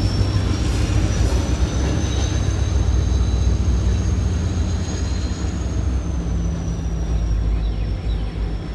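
Diesel locomotive on a passing freight train running with a steady low engine drone, and a thin high whine above it that rises slightly and then eases back down.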